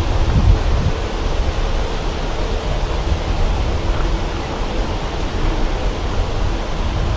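Steady wind, buffeting the microphone with a low rumble.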